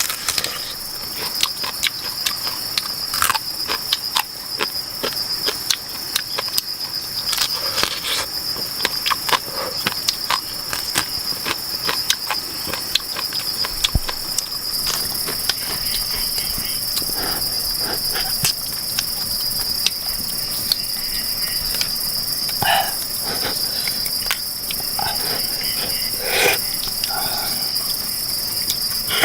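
A steady, high-pitched drone from a rainforest insect chorus, with scattered short clicks and knocks throughout.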